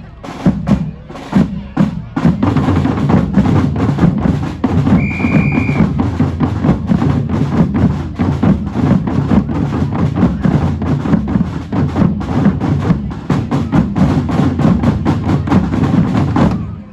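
Drum band playing: a few separate hits at first, then a full, fast rhythm on bass and other drums from about two seconds in, with a short high tone about five seconds in. The whole band stops together just before the end.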